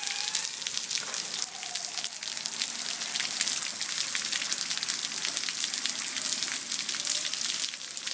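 Heavy rain falling: a steady hiss with a dense patter of drops landing close by.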